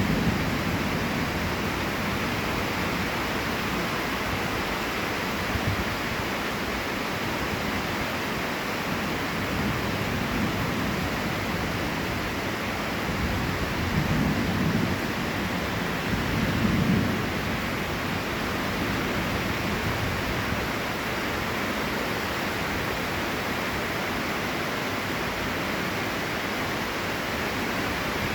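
Heavy rain pouring steadily, an even hiss of downpour. Two brief low swells rise out of it about halfway through.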